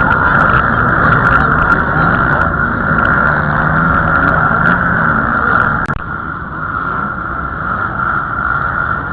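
Motocross bikes racing, their engines revving and changing pitch; the engine noise drops about six seconds in.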